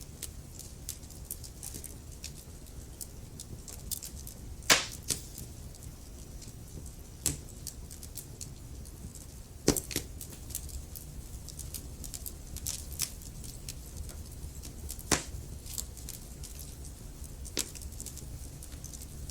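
Burning logs in a wood fire crackling, with scattered sharp pops, the loudest about five and ten seconds in, over a low steady rumble.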